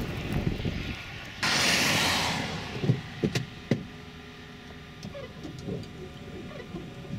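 Vehicle noise: a low rumble, then a sudden loud hiss lasting about a second, followed by three or four sharp knocks and a quieter stretch.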